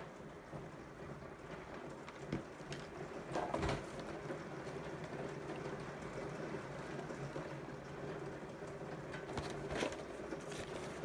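Hand crank of a Sony ICF-B88 radio turning its built-in dynamo: a steady whirring with a faint hum, with a couple of small knocks in the first few seconds.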